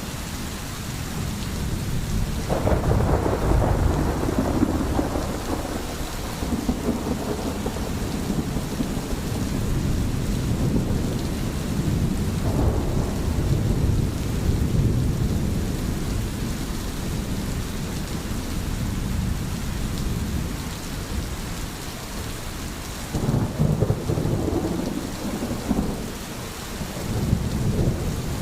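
Steady heavy rain with low rolling thunder that swells several times, about three seconds in, around twelve seconds and again near the end.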